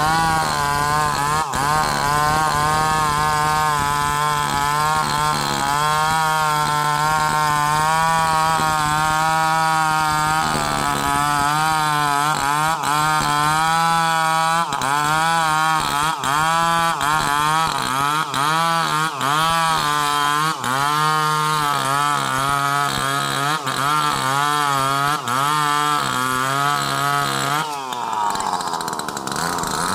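Chainsaw running and cutting sengon (albizia) wood, its engine pitch wavering up and down under load; the sound changes about two seconds before the end.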